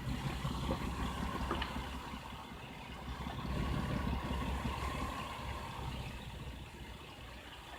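Toyota 1JZ-GE 2.5-litre inline-six engine idling steadily with a misfire, which the mechanic traces to a shorted coil-on-plug ignition coil.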